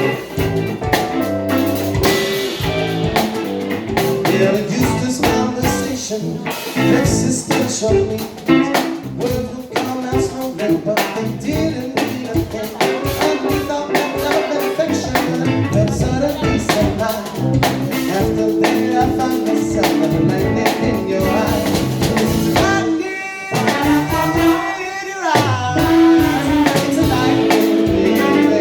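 Live band playing a blues-style song with guitar and drum kit, a sliding pitch bend about three quarters of the way through.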